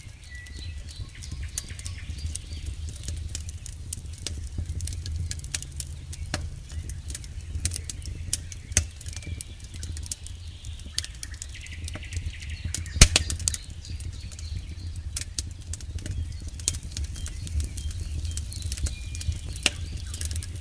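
Campfire burning, crackling and snapping irregularly with one loud pop about thirteen seconds in, over a low steady rumble.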